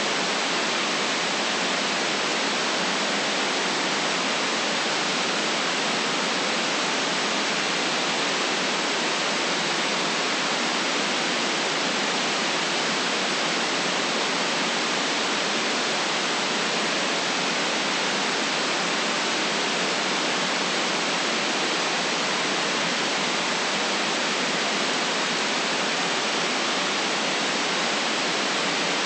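Constant generated white noise: an even, unchanging hiss with the deep bass cut away.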